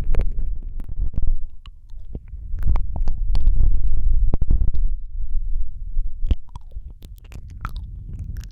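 ASMR mouth sounds right against a Rode microphone: quick wet clicks and smacks over a low rumble, busy at first and thinning out over the last few seconds.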